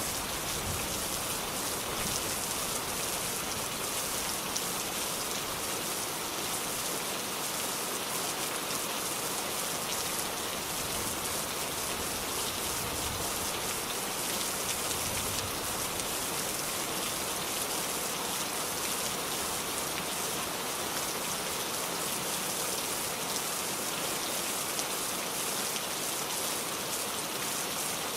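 Steady rain falling, with fine pattering of drops on a surface.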